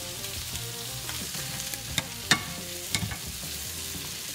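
Sheepshead fillet frying in half oil, half butter in a stainless steel pan, sizzling steadily alongside sautéing vegetables, with a few sharp clicks of a utensil against the pan about two to three seconds in.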